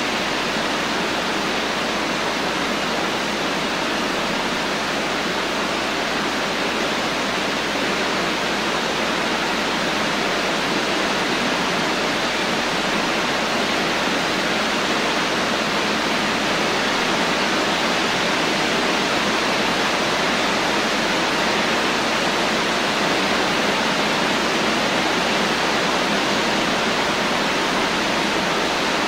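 Steady rain, a continuous even hiss with no single drops or thunder standing out.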